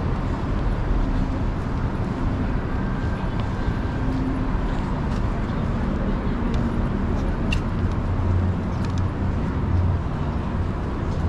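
City street traffic: a steady low rumble of motor vehicle engines and tyres.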